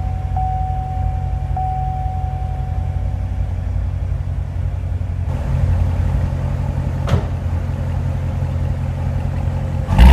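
2014 Corvette Stingray's 6.2-litre V8 idling steadily just after a push-button start. It is heard first from the cabin, then from about five seconds in from behind the car at its quad exhaust tips, a little louder. The level jumps sharply right at the end as a rev begins.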